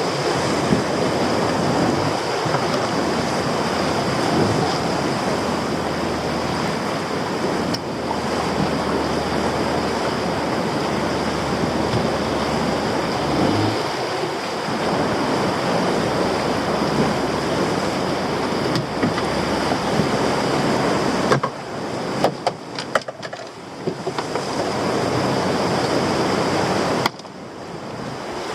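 Heavy sea swell surging and breaking around a small boat, with the boat's engine running low underneath and wind on the microphone. About three quarters of the way through come a run of sharp knocks with brief drops in the sound.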